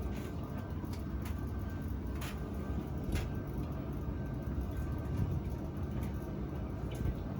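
Steady low hum of a running tumble dryer, with a few brief light knocks and clicks.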